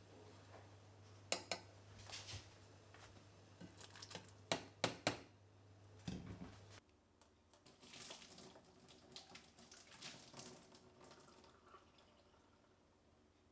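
Kitchen sink work: a few sharp knocks of utensils or a bowl during the first half, then tap water running for a few seconds. A low hum stops about halfway through.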